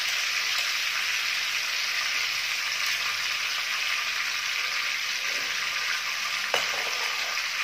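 Blended red chilli paste sizzling steadily in hot oil in a wok. There is one light click near the end.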